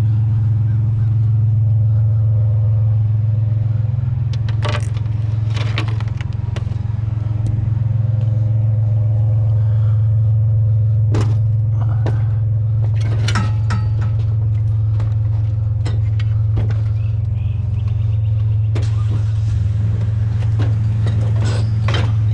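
Truck engine running steadily with a deep, even hum, with scattered sharp clicks and clanks over it.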